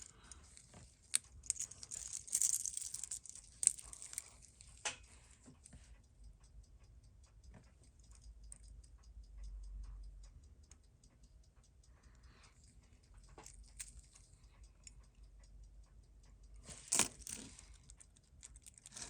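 Small metal clicks and rattles of a watch bracelet and case being handled on a bench during the first few seconds and again near the end. In between comes a faint, fast, even ticking, several ticks a second, from the running Seiko 6139 chronograph movement.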